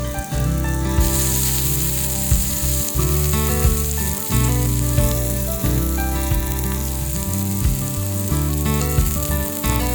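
Meat sizzling on a hot grill over a campfire: a steady frying hiss that grows louder about a second in. Background music with a bass line plays underneath.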